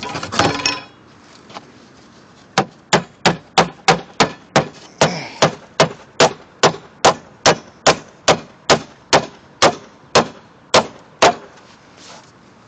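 Hammer driving a nail between roof slates to fix a metal tab hanger for a replacement tile. The sharp, ringing blows come steadily at about two a second, after a brief clatter at the start.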